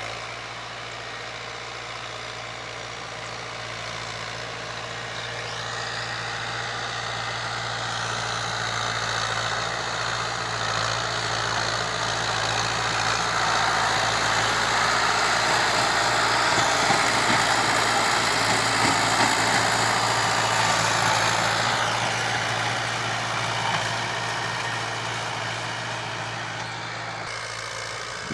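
Fiat 640 tractor's diesel engine running steadily. The engine note grows louder and harsher through the middle, as if working harder or opening up, then eases back down toward the end.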